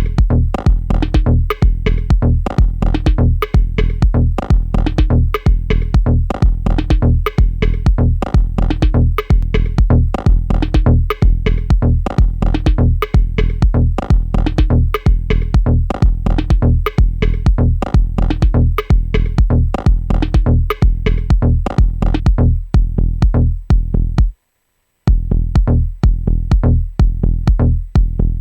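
Dub-techno groove from a Native Instruments Maschine drum machine and synthesizer playing in a loop, with a steady repeating beat over a deep bass. It drops out for under a second near the end, then comes back.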